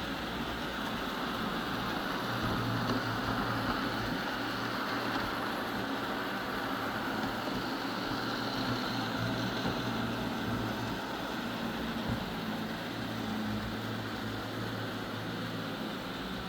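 Eufy robot vacuum running: a steady whir from its suction fan and brushes, with a low motor hum that fades in and out as it drives.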